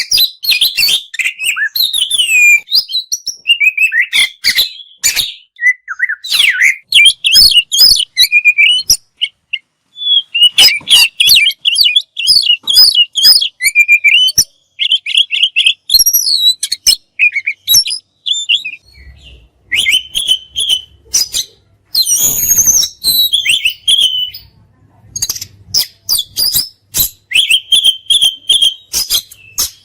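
Oriental magpie-robin (kacer) singing loudly: a fast, varied song of whistled phrases mixed with sharp, rapid-fire notes, broken by short pauses.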